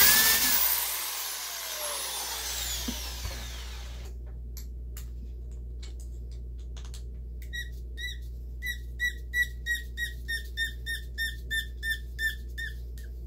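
Corded electric drill boring holes in cork, loudest at the start, then its motor winding down with falling pitch over a few seconds after the trigger is let go. After that come small handling clicks and a run of short high squeaks, about three a second, while a small part is worked by hand.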